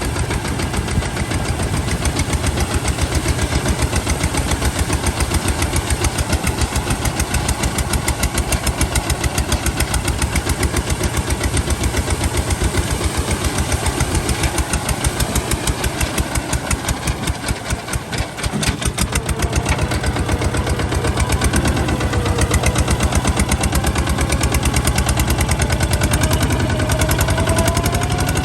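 Kubota ZT155 single-cylinder diesel tractor engine running with a rapid, even firing beat; it dips briefly about two-thirds of the way through, then picks up again, with a faint rising whine near the end.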